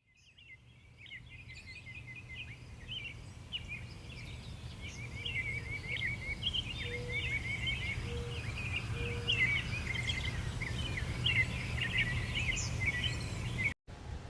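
Many small birds chirping and twittering at once, rapid overlapping calls, over a steady low outdoor rumble. It fades in over the first couple of seconds and cuts off abruptly near the end.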